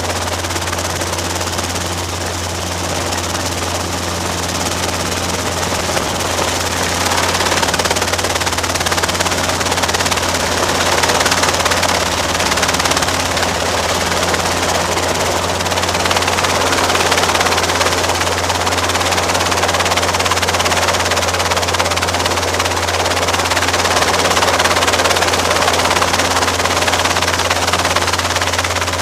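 Robinson R22 helicopter's rotor and carbureted piston engine running steadily, a constant drone that grows slightly louder over the stretch.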